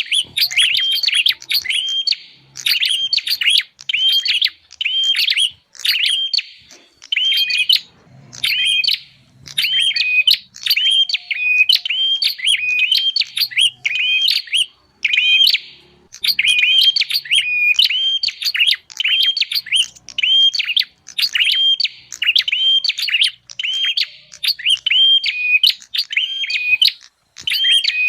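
Prinia (prenjak) calls played as a bird-lure recording: quick runs of sharp, high chirping notes, repeating in clusters with brief gaps between them.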